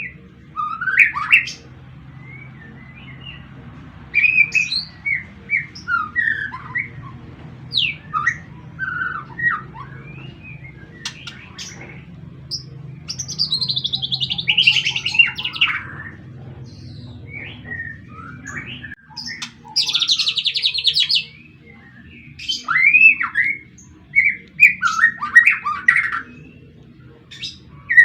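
Six-month-old white-rumped shama singing a varied run of short whistled phrases and chirps, with a fast buzzy trill about twenty seconds in, over a low steady hum.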